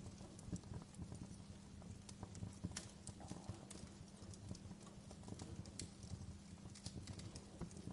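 Wood bonfire crackling: irregular sharp pops and snaps over a steady low rumble of the burning fire.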